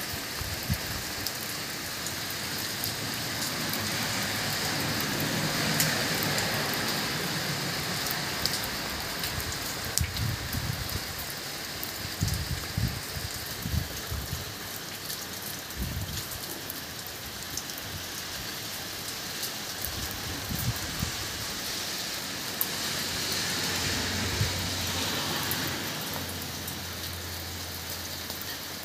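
Steady rain falling on garden plants: a dense, even patter of drops with scattered sharper drips close by. A low rumble runs underneath near the end.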